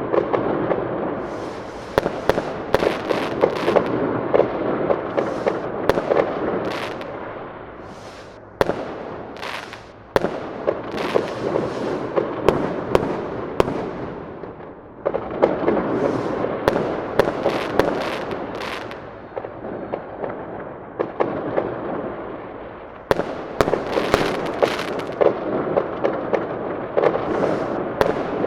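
Fireworks going off: a dense run of rapid crackling pops and sharp bangs, coming in several waves with short lulls between them.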